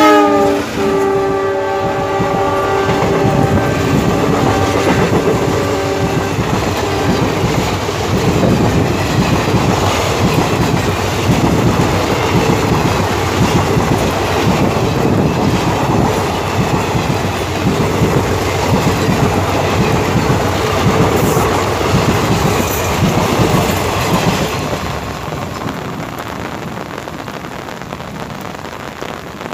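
A diesel locomotive's horn sounds as it passes at speed, dropping in pitch as it goes by and stopping after about six seconds. The passenger coaches then rush past with a steady clickety-clack of wheels over the rail joints, which fades near the end as the express draws away into the hiss of heavy rain.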